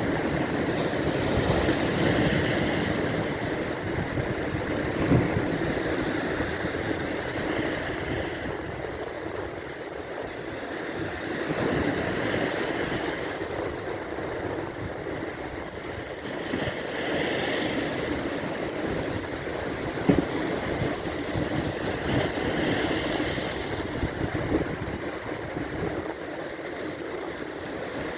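Baltic Sea waves breaking on the shore, the rush of surf swelling and fading every five or six seconds.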